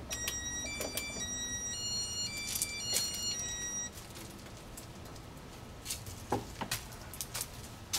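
Electronic beep tones stepping up and down in pitch like a short tune for about four seconds. After that it goes quieter, with a few sharp clicks near the end.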